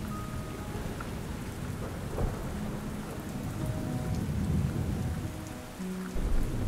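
Steady rain falling, with low rolling thunder rumbling underneath. Faint sustained notes of a soft background music bed come and go over it.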